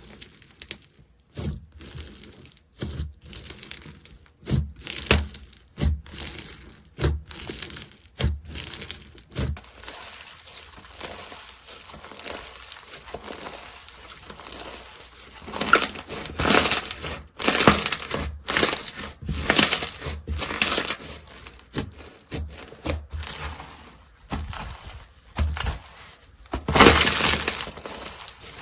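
Slime being squeezed and pressed by hand, giving repeated crackling and crunching sounds with small pops; the crackling comes in longer, louder bursts in the second half.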